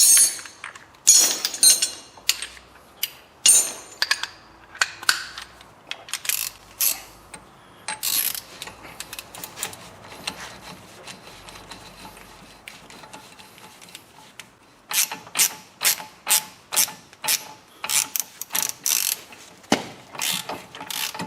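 Ratchet wrench clicking in short runs as the drive shaft bolt is run back into a front wheel hub, with a quieter stretch in the middle and a fast run of clicks near the end.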